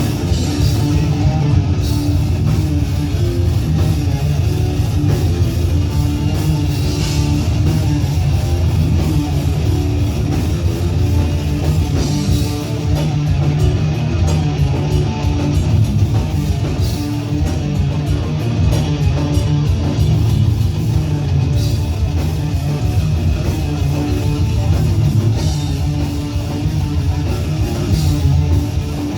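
Heavy metal band playing: loud distorted guitars over fast, dense drumming, continuous throughout.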